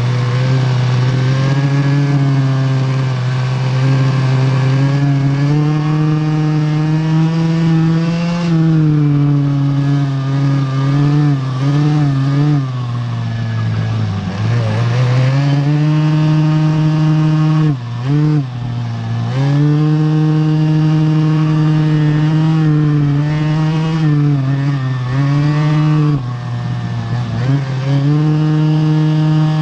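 Vintage racing kart's small two-stroke engine at high revs, heard onboard, held near full throttle and dipping briefly several times as the driver lifts for corners before revving back up.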